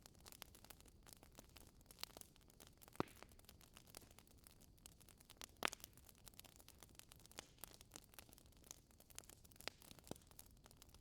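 Wood fire crackling in a fireplace: a quiet, irregular stream of small snaps, with two louder pops about three seconds in and about halfway through.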